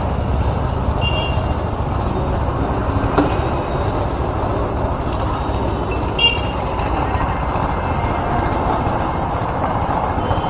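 Steady road-traffic and engine noise, with short high horn toots about a second in and again around six seconds in.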